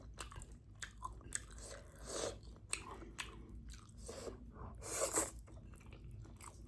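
A person chewing food close to the microphone, with many small wet mouth clicks and two louder bursts about two and five seconds in.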